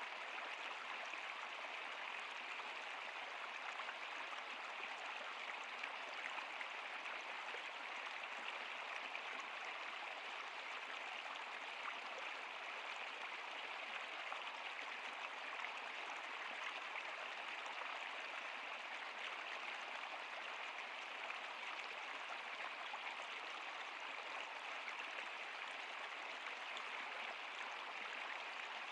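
Flowing water of a stream or river running steadily, an even rushing hiss with fine splashing texture.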